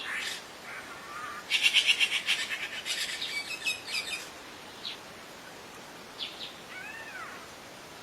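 Several wild birds singing and chirping together, with a loud run of rapid high chirps in the first half, then scattered single notes and a couple of arched whistles near the end, over a steady hiss.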